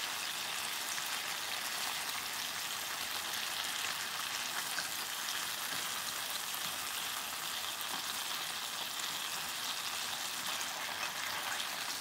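Chicken thighs and spinach frying in a soy sauce and sake glaze in a frying pan: a steady sizzle.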